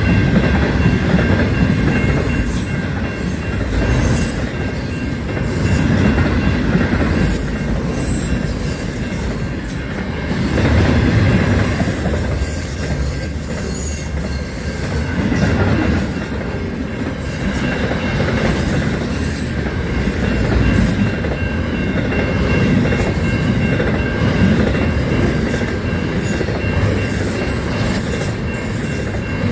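A train running on the rails with a steady rumble of wheels, and short high-pitched wheel squeals coming again and again.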